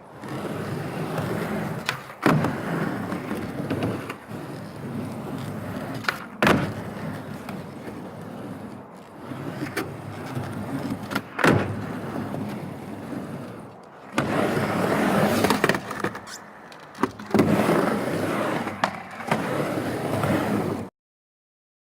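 Skateboard wheels rolling back and forth on a half pipe, the rumble swelling and fading, with several sharp clacks of the board striking the ramp. The sound cuts off suddenly near the end.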